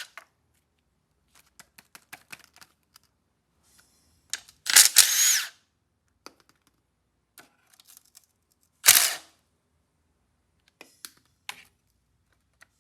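A cordless power tool with a 13 mm socket runs in two short bursts, each rising in pitch as it spins up, to run off nuts holding the engine's fan housing. Small clicks of the socket and parts come between the bursts.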